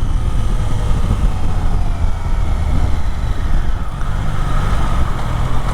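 Triumph Daytona 660's inline three-cylinder engine running on the move, with a steady rush of low rumble and wind noise. The engine note eases down slightly over the first few seconds, then holds steady.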